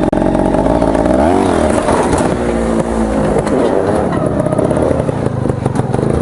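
Trials motorcycle engine revved in sharp blips, its pitch swooping up and down several times as the clutch is popped for a launch, with scattered knocks and clatter in the second half.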